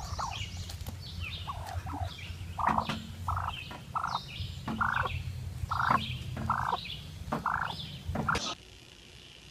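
Bird calls: a string of short calls, roughly one every second or less, with higher chirps over them and a steady low hum underneath. It all cuts off suddenly near the end.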